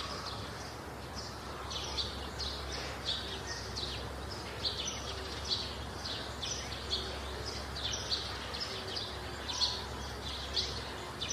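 Small birds chirping repeatedly: short, high, descending chirps about twice a second over a steady background hiss and low hum.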